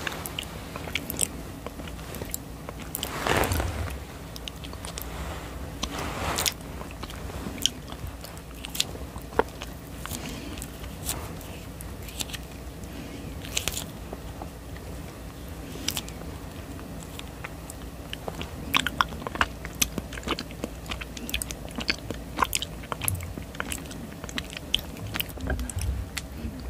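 Close-miked eating of a honey jelly: biting and chewing, with many small wet clicks and mouth sounds and a few longer, noisier sounds in the first several seconds.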